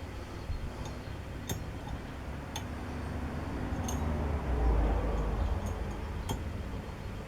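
Light clicks and clinks of metal workshop parts being handled, four or five spaced about a second apart, with a low rumble swelling a little past halfway.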